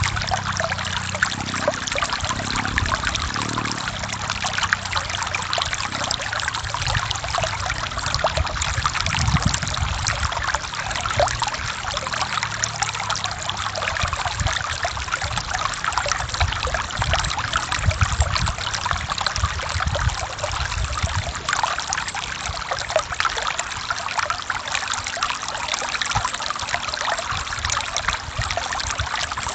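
Forest stream running over rocks: steady rushing water with constant small splashes and trickles over a low, uneven rumble.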